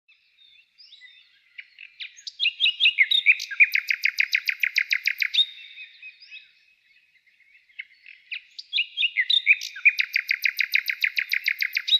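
A songbird sings two phrases about three seconds apart. Each phrase is a fast run of repeated notes ending abruptly, and fainter bird chirps are heard in between.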